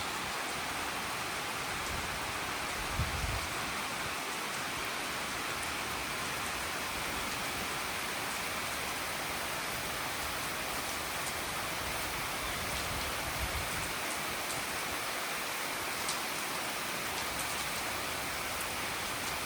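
Steady rain falling, an even hiss with no let-up. A short low thump comes about three seconds in, with a few fainter ones later.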